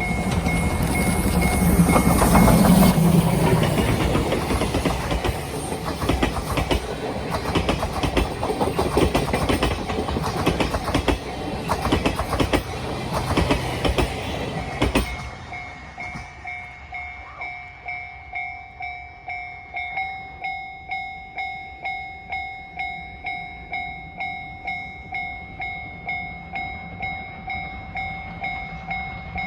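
Steam-hauled passenger train, the C57 180 with 12-series coaches, passing close by, its wheels clacking quickly over the rail joints. About halfway through the train noise drops away suddenly, leaving the level crossing's warning bell dinging steadily, about one and a half dings a second.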